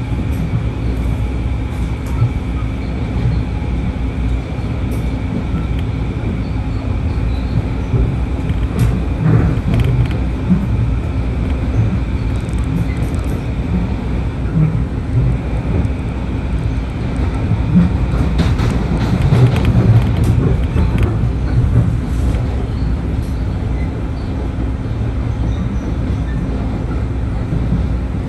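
Long Island Rail Road train running on the tracks: a steady rumble with a constant hum and a few short clatters, louder for a few seconds about two-thirds of the way through.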